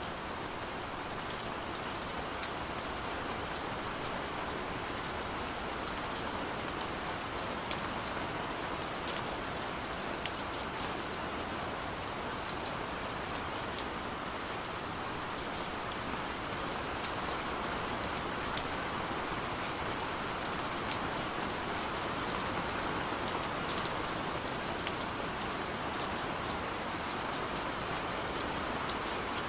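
Gentle rain falling steadily, an even hiss with scattered sharper drop ticks.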